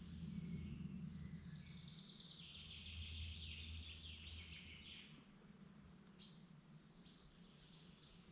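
A songbird singing in woodland: a long phrase of rapid repeated high notes starting about a second in, and a second shorter phrase near the end, over a faint low hum.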